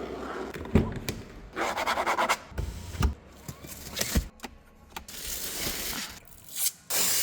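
Plastic protective wrapping being peeled and handled: rustling and crinkling, with several sharp knocks and a hiss starting near the end.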